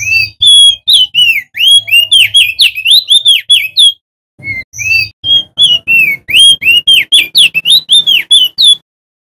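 Male opior jambul, a songbird of the white-eye family, singing a loud, fast run of clear whistled notes that swoop up and down, about five notes a second. There is a short pause about four seconds in before a second run.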